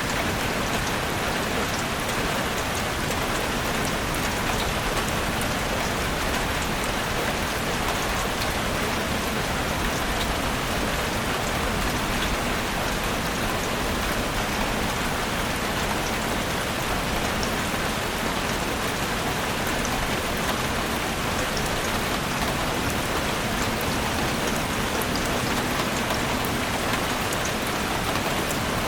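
Steady rain falling in a forest, an even hiss of rain with scattered individual drops ticking on leaves and surfaces.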